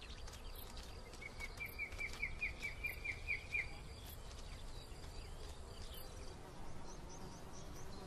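Summer countryside ambience: a small bird sings a quick run of about a dozen rising chirps starting about a second in and lasting a couple of seconds, followed by fainter, higher chirps later, over a low steady background with insect-like buzzing.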